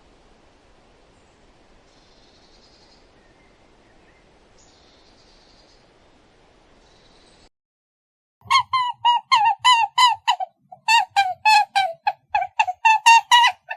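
A bird honking in a fast, loud series of short calls, about four a second, starting about eight and a half seconds in after a stretch of faint background with a few soft high chirps.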